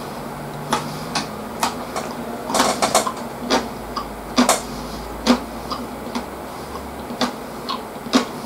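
Close-miked chewing: irregular wet clicks and smacks from a mouth chewing food, some closer together than others.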